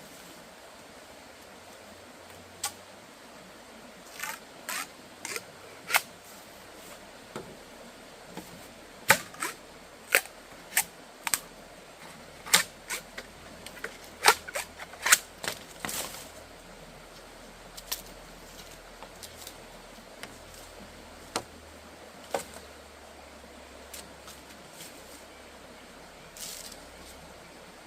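A run of irregular sharp clicks and knocks, most tightly bunched and loudest in the middle, over a quiet steady background.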